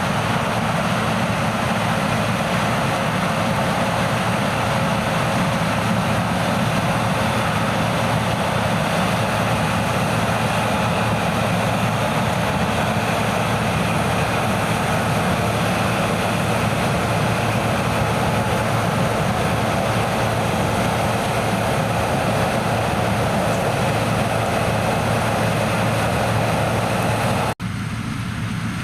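Heavy diesel farm machinery running steadily: a constant low engine hum under a broad, even machine noise. Near the end it cuts off suddenly to a quieter, wind-like sound.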